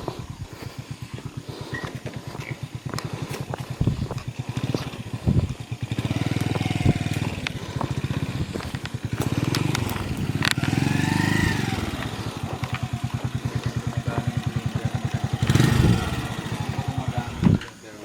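A small engine running steadily at idle, with a few sharp knocks and clicks over it, the loudest shortly before the end.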